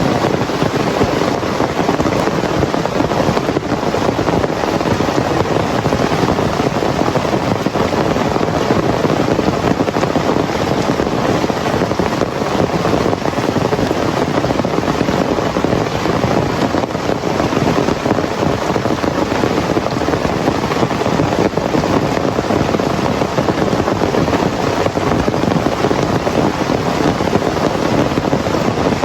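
Heavy rain pouring steadily in a dense, even hiss with no letup.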